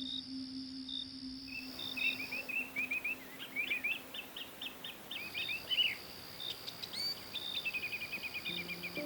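Small birds chirping in quick runs of short notes, over a steady hiss of background ambience that comes in about a second and a half in.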